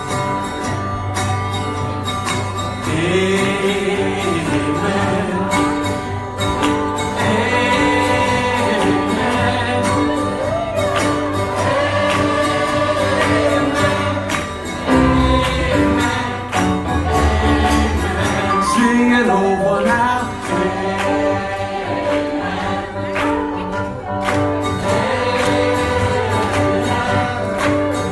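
Live gospel song with a blues tune, a group of voices singing together over guitar accompaniment.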